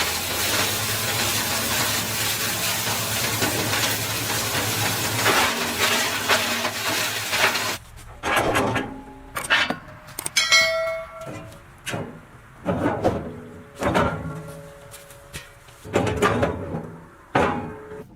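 A machine running with a steady hiss and low hum, which stops abruptly about eight seconds in. After that come a dozen or so separate knocks and clatters, irregularly spaced, with a brief ringing tone a little past halfway.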